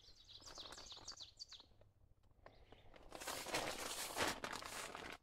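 Birds chirping in short, high calls, then about three seconds in a louder rustle of fabric that cuts off abruptly.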